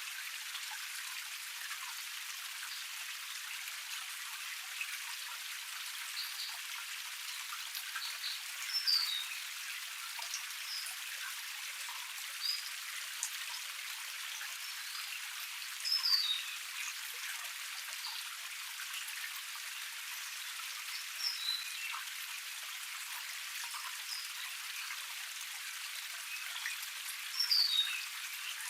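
Water of a small forest cascade splashing steadily as a thin hiss without any low rumble. A bird gives short, high, falling chirps several times over it.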